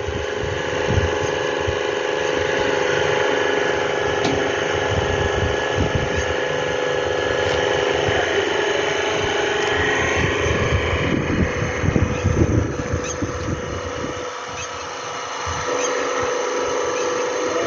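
Hydraulic power pack running with a steady hum as it unloads a machine, with irregular low rumbles and knocks around the middle.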